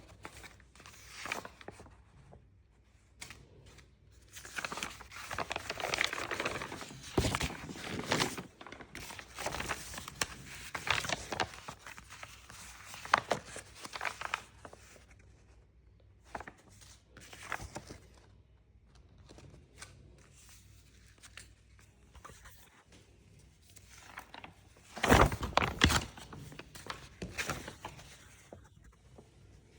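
Paper being handled, rustling and crinkling in irregular bursts with small clicks and taps, loudest about 25 seconds in.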